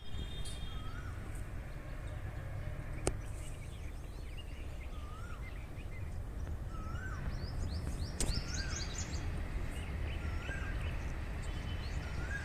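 A bird repeating a short rising-and-falling whistled call about every two seconds, with a flurry of higher chirps from other birds about seven to nine seconds in, over a steady low rumble.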